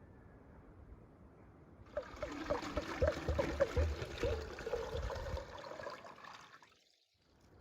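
Water running or being poured, with short bubbly blips. It starts about two seconds in and fades out shortly before the end.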